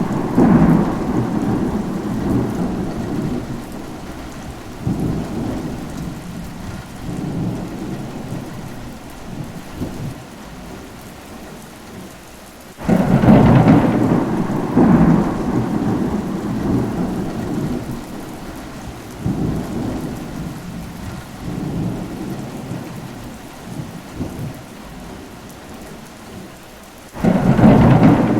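Steady rain with thunder: a rumble fading from the start, then two sudden rolls of thunder, about 13 seconds in and near the end. Each rumbles on and fades over several seconds.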